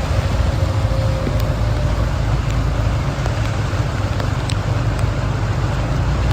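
Steady road-vehicle noise: a continuous low rumble with an even hiss over it and a few faint ticks.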